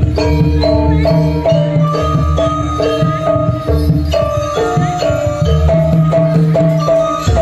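Jaranan gamelan music: tuned metal mallet instruments play a quick repeating melody over drums and sustained low tones.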